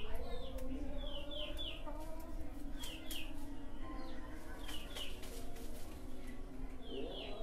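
Birds calling: short, high, falling chirps, mostly in quick pairs, repeating every second or so, over lower wavering calls and a few sharp clicks.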